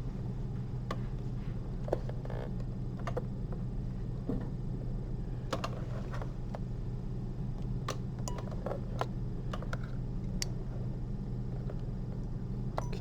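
Small, irregular clicks and taps of surgical instruments (needle holder and forceps) handled while suturing, over a steady low hum.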